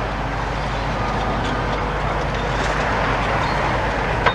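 Demolition excavator's diesel engine running steadily, with a single sharp clank about four seconds in.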